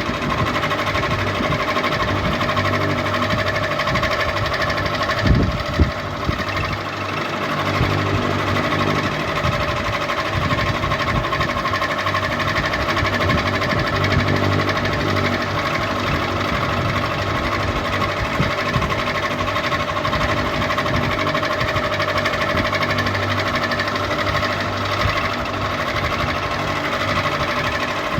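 Ceiling fan running steadily with a constant hum and a fast, even mechanical rattle, with a couple of brief low thumps about five seconds in.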